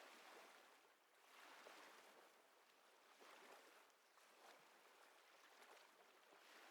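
Faint ocean waves washing on a shore, a soft hiss that swells and ebbs every second or two.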